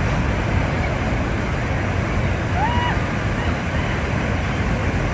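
Steady low rumble of outdoor wind on the microphone, with a brief tone about two and a half seconds in that rises and then holds level.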